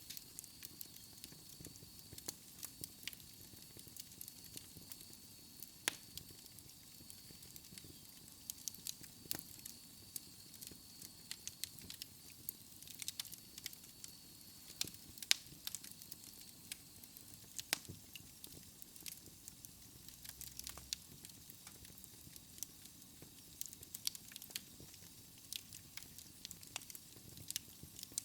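Wood fire crackling in a fireplace: irregular sharp pops and snaps over a soft steady hiss, with a faint high whistle through the first half.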